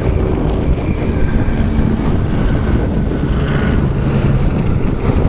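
Wind buffeting the microphone aboard a small sailboat under way, with water rushing along the hull and a faint steady motor drone underneath.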